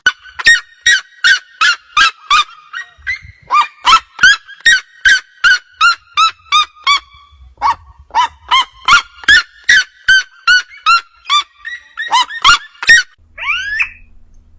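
A bird calling in a long, loud series of short, sharp notes, about three a second, with a brief rising chatter from a bird near the end.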